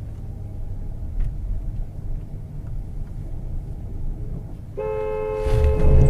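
Low road and engine rumble from inside a moving vehicle. About five seconds in, a car horn sounds steadily for about two seconds, two tones together. Under the horn comes a heavy low thump, the loudest sound here, as the car is struck.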